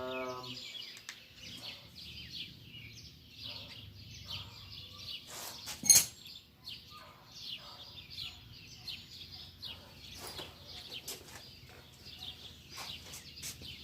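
Small birds chirping steadily in the background, with one sharp knock about six seconds in.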